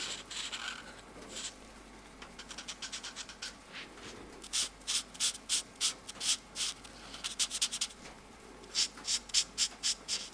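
Felt-tip marker tips scratching across paper in runs of quick back-and-forth coloring strokes, several a second, with short pauses between runs.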